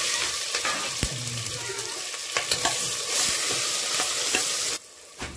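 Wet onion, ginger and garlic paste sizzling in hot oil in a pressure-cooker pot, with a few sharp clicks as it is stirred. The sizzle stops abruptly near the end.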